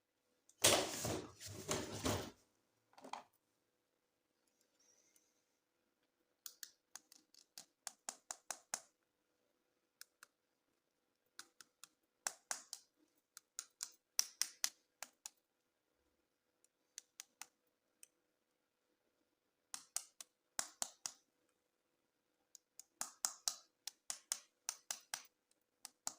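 Handling of toys and their packaging: a loud rustling, crinkling burst near the start, then bunches of quick, sharp clicks, several a second, recurring through the rest.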